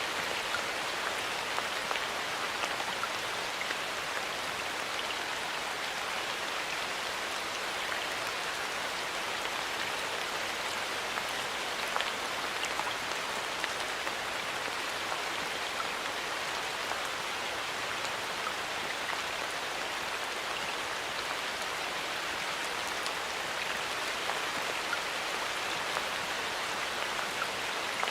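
Light rain falling steadily in a forest, a dense even patter with many small drop ticks.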